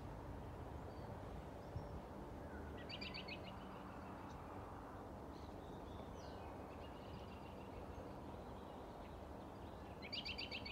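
A bird gives two short, rapid chattering calls, one about three seconds in and one near the end, over steady low background noise.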